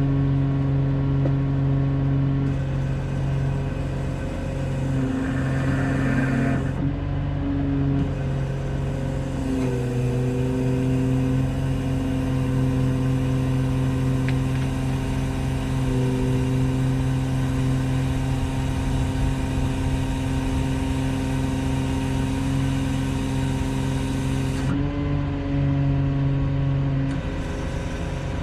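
A vehicle engine running steadily, its pitch shifting slightly about ten seconds in and again briefly near the end.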